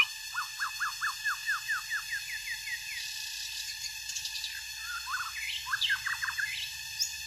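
White-rumped shama singing: a quick run of short descending whistles, about four a second, then a more varied phrase of rising and falling whistled notes.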